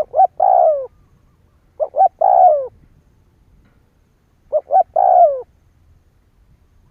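Spotted dove cooing: three phrases about two seconds apart, each two short notes followed by a longer note that falls in pitch at its end.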